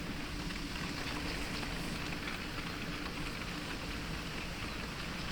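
Steady heavy rain in a storm, a dense even hiss with scattered drops ticking.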